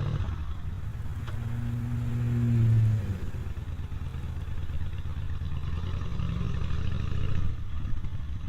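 Motorcycle engine pulling away and accelerating, its pitch and loudness rising for about three seconds, then easing off as it settles into steady riding.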